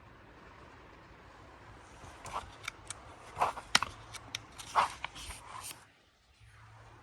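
Magazine pages being handled and turned: a run of short crisp paper rustles and snaps over a few seconds in the middle, over faint room noise.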